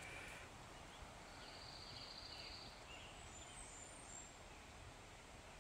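Near-silent forest ambience with faint birdsong: a thin high trill from about a second in, then a few higher chirps.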